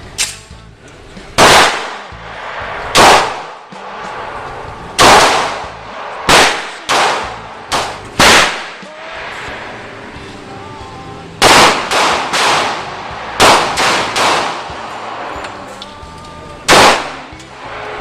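Firearm shots fired singly at an uneven pace, about fifteen in all, some in quick runs of two to four. Each is a sharp, very loud crack with a short ringing tail.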